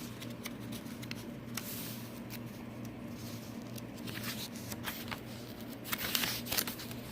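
Paper and card stock rustling and crinkling as the pages, tags and inserts of a handmade paper journal are handled and turned, with light clicks and taps, over a steady low hum.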